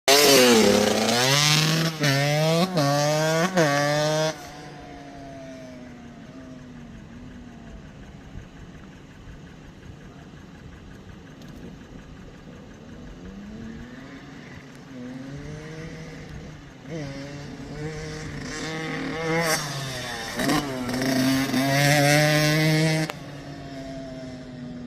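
Kawasaki KX85's two-stroke single-cylinder engine, fitted with an FMF shorty pipe, revving hard up through the gears, its pitch climbing and dropping at each quick upshift. It runs quieter for a stretch as the bike is farther off, then comes back loud with another run of upshifts that cuts off sharply near the end.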